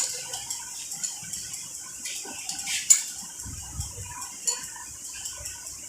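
Small metallic clinks and clicks of a 10 mm spanner working the two bolts of a motorcycle engine's timing-chain tensioner as they are tightened, with a sharper click about three seconds in.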